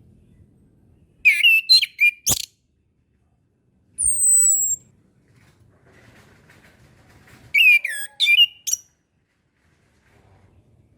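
Chestnut-capped thrush (anis kembang) singing: two short bursts of rapid, varied whistled notes a few seconds apart, with a single thin, high, falling whistle between them.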